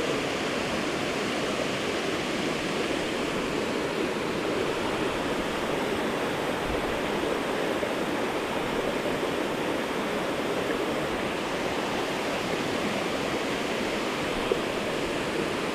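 Steady rush of falling water from a waterfall, even and unchanging throughout, with a single small click near the end.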